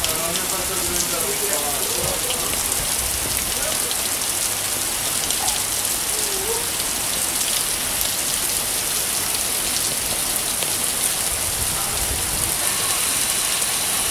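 Rain falling steadily in a thunderstorm, a dense even hiss with many small drop hits. Faint voices can be heard near the start and about six seconds in.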